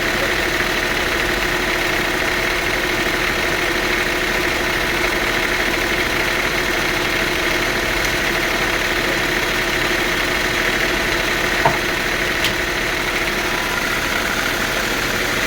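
Sawmill machinery running steadily with an even engine hum and a steady whine, and a single sharp knock about twelve seconds in.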